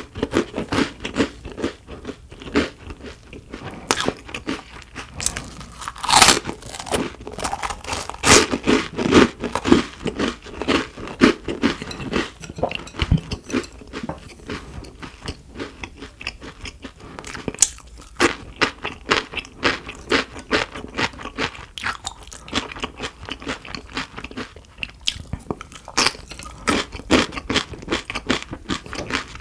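Close-miked eating sounds: a person chewing and crunching food in quick, irregular bites and mouth clicks, with a few louder crunches along the way.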